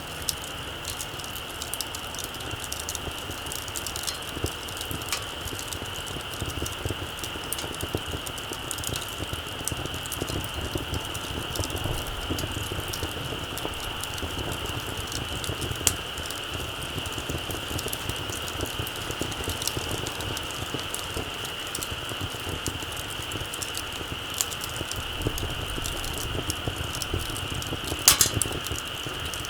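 Small campfire crackling, with scattered small pops and one sharper pop near the end, over a steady high-pitched drone.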